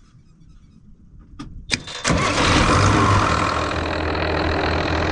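New Holland 8770 tractor's diesel engine: a couple of sharp clicks, then it fires about two seconds in and settles into a steady idle. It has just started after a no-start that the mechanic puts down to a bad connection on the start relay.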